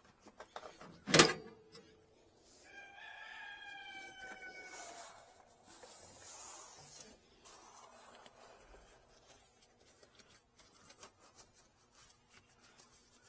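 A sharp knock about a second in, then a rooster crowing once, a call of about two and a half seconds that falls slightly in pitch. Faint clicks and rustles of hand-tool work follow.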